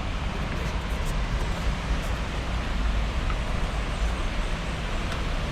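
Steady rushing noise of flowing water, with an uneven low rumble on the microphone underneath.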